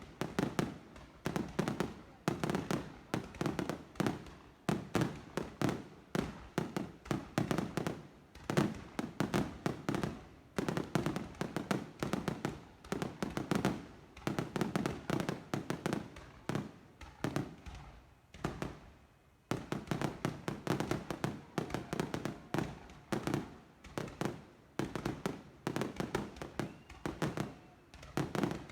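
Fireworks going off in a dense barrage: many overlapping bangs and booms, several a second, easing briefly about two-thirds of the way through before picking up again.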